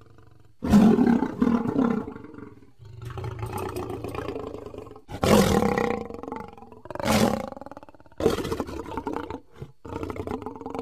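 Lion roaring: several loud calls in quick succession with short gaps between them, the loudest starting about a second in.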